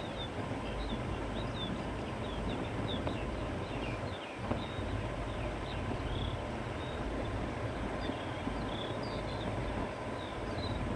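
Countryside ambience: steady wind with a low rumble, and small birds chirping in quick, high notes throughout.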